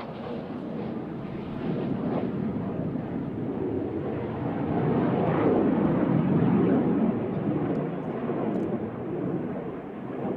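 Jet aircraft flying past, its engine noise rising to its loudest a little past halfway and then fading away.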